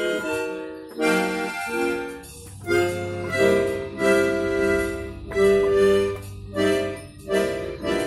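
Accordion music: reedy chords changing every half second or so, with a steady low bass note entering about two and a half seconds in.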